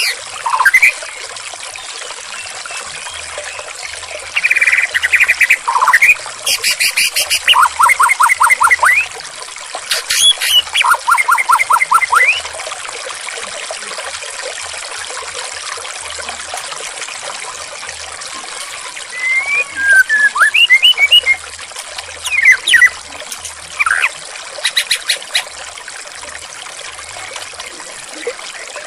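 Steadily trickling, flowing water with a songbird singing over it in separate phrases: fast trills of repeated rising notes and short clear whistles, with pauses of a few seconds between them.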